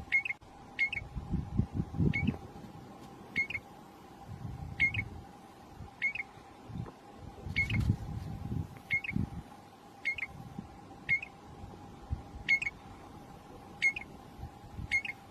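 A small bird giving a short, high call over and over, about once every second or so, against a faint steady hum and a few low rumbles.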